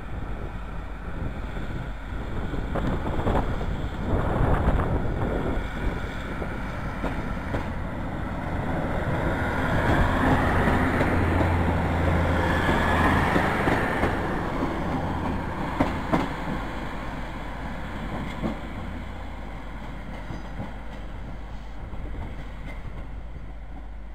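Class 156 Sprinter diesel multiple unit running along the platform, its diesel engine droning low under the rumble of the wheels, with sharp clicks as the wheels cross rail joints. It grows louder as the train draws alongside, loudest for a few seconds in the middle, then fades.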